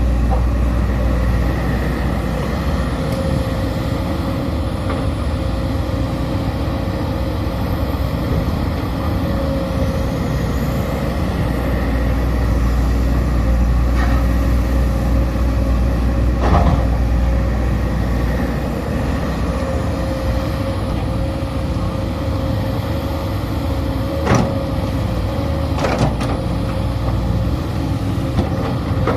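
Sumitomo SH210 hydraulic excavator working: its diesel engine runs steadily with a deep rumble and a steady high tone over it. Occasional sharp knocks break through, the loudest about 16 seconds in.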